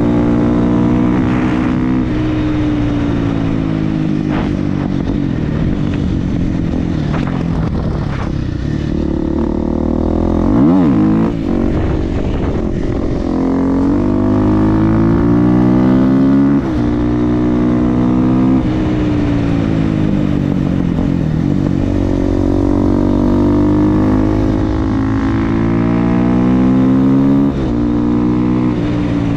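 Supermoto motorcycle with an FMF exhaust accelerating hard. The engine note climbs and then drops sharply as it shifts gear, about five times over, with a quick fall-and-rise in pitch near the middle.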